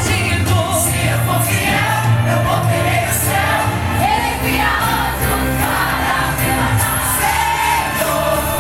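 Gospel worship song sung by a group of voices over instrumental accompaniment with a steady bass line.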